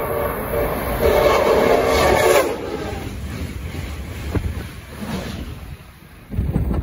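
Passenger train on an electrified line sounding its horn, a steady chord held for about two and a half seconds, then rushing past at speed. Near the end a gust of wind buffets the microphone.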